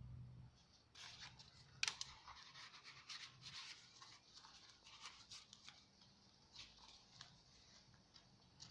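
Faint rustling, scratching and soft ticks of handmade journal pages and embellishments being handled, with a sharper tick about two seconds in.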